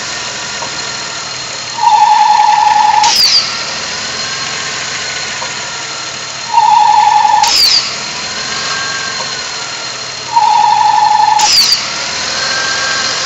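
1998 Dodge Grand Caravan's 3.3-litre V6 idling, broken three times by a loud, even buzzing rattle about a second long, each ending in a sharp click. It comes from inside the engine and sounds as if a valve is activated; the owner cannot identify it.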